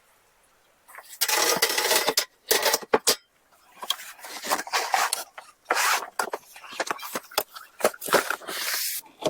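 Dishes and kitchen utensils clattering and scraping. It starts with a long scrape about a second in, then a few sharp knocks, then a run of irregular scraping and clinking.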